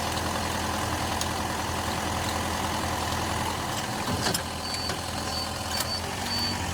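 Rebuilt Mercedes V8 engine idling steadily, with a slight change in its note about four seconds in. From a little past the middle a short, high electronic beep repeats several times over it.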